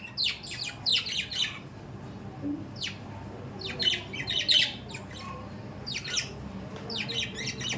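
Budgerigars chattering and squawking: bunches of short, sharp high calls that come and go several times.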